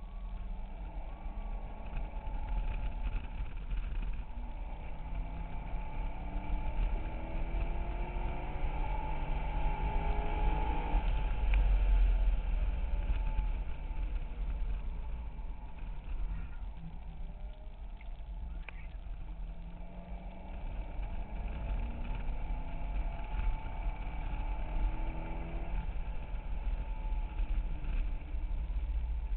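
2008 Corvette Z06's 7.0-litre V8 heard from inside the cabin at track speed, its engine note climbing under power for several seconds before falling back near the middle, then climbing again and falling away near the end. A heavy low rumble runs underneath.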